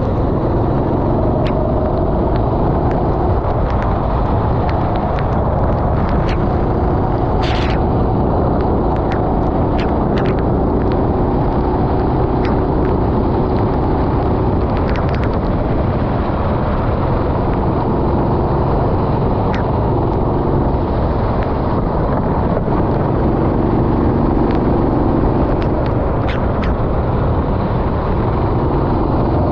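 Rental go-kart engine running hard and changing pitch as it races on a wet track, with a dense rushing noise over it and scattered sharp clicks.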